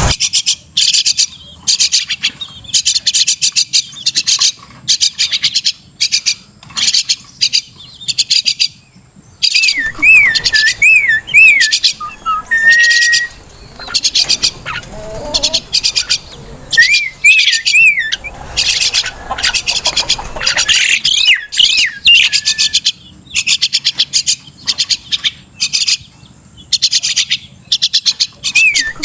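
Crested myna calling: repeated bursts of fast, harsh chattering notes, broken by a few wavering whistled phrases that rise and fall several times over.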